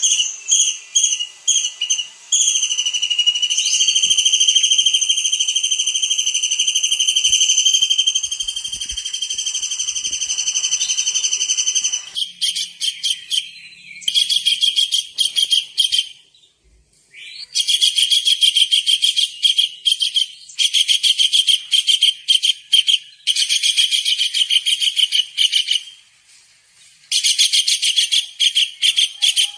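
Tengkek udang (kingfisher) calling. A few short high notes lead into one long, steady, shrill whistle. About twelve seconds in, this gives way to bursts of rapid, shrill trilled chatter lasting a few seconds each, with short pauses between them.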